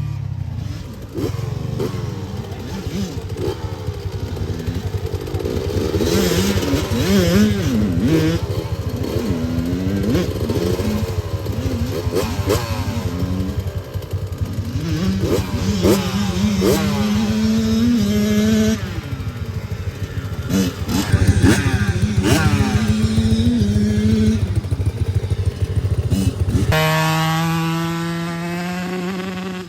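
Small dirt bike engines revving up and down as the bikes ride, several overlapping engine notes rising and falling in pitch, with one engine holding a steadier note near the end.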